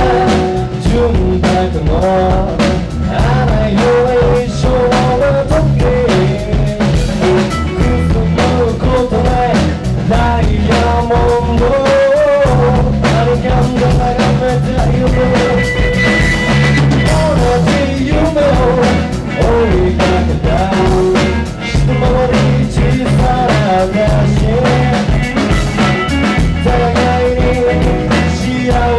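A rock band playing with a steady drum-kit beat and bass under a wavering lead melody line.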